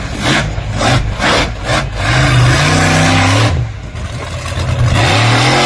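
Monster truck engine revving hard in surges, the pitch rising and falling as the throttle is opened and closed during a run.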